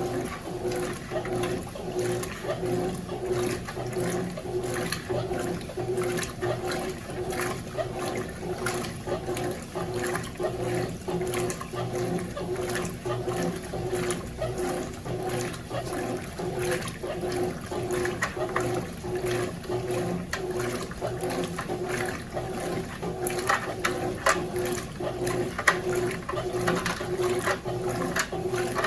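Consul CWS12 12 kg washing machine in its wash cycle: a steady motor hum with water sloshing in regular swells as the load of jeans is churned.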